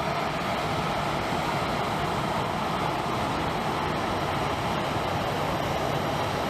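Jet airliner engines running on or near the runway: a steady rushing noise with no breaks, easing off slightly over the few seconds.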